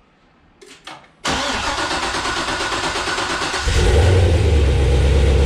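Corvette V8 being started for the first time after a BTR Stage 2 cam and valve spring install. The starter cranks suddenly for about two and a half seconds, then the engine catches and settles into a louder, deep, steady run.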